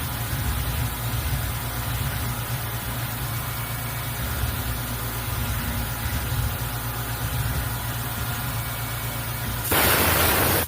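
CNC mill running while engraving, a steady low machine hum with several fixed whining tones. About a second before the end a loud hiss comes in and then cuts off suddenly.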